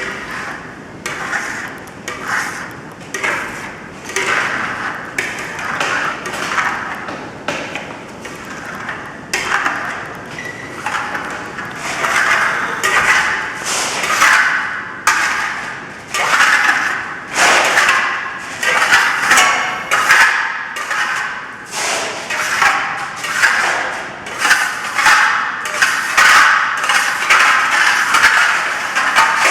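Steel trowel scraping across a plaster wall in repeated strokes, about one to two a second and coming faster in the second half, as it spreads and burnishes Venetian marble plaster.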